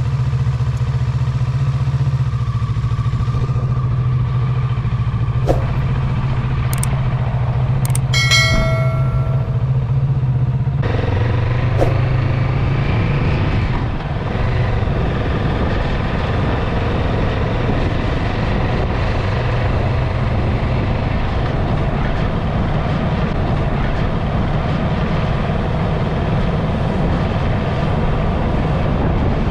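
Motorcycle engine running on the move, with a steady low hum that turns rougher and noisier about eleven seconds in. A short pitched chirp comes about eight seconds in.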